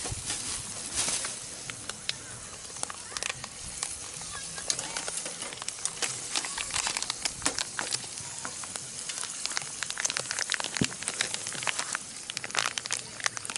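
Food sizzling in a frying pan, a steady hiss scattered with many sharp crackles and pops.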